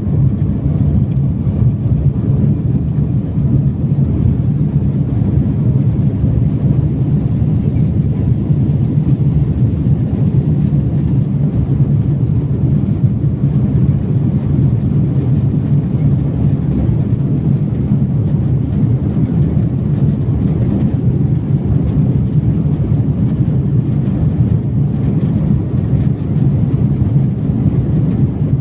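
Jet airliner during takeoff: a steady, loud low rumble of engines and rushing air, even throughout with no rise or fall.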